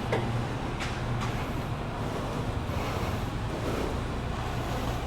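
A vehicle engine idling, a steady low hum under a haze of wind and background noise, with a couple of faint clicks.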